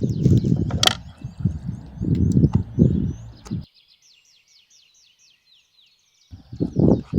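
Small birds chirping repeatedly with short, quick, falling calls. Louder irregular low rustling and knocking sounds run underneath, with a sharp click about a second in; they stop abruptly for about two and a half seconds near the middle and then return.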